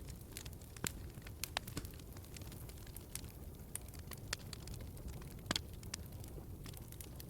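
Log fire in a fireplace crackling: irregular sharp pops and snaps over a low steady rumble of flame, with the loudest pop about five and a half seconds in.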